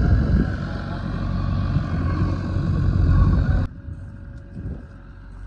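JCB 3DX backhoe loader's diesel engine running steadily under work. It cuts off abruptly about three and a half seconds in, leaving a much quieter background.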